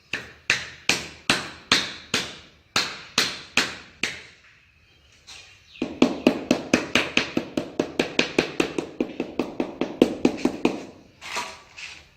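Hard tapping strikes of a mason's tool, as in tiles being tapped down into their bed during tile setting. There are about two strikes a second for the first few seconds, then after a short pause a fast run of about six a second that lasts about five seconds.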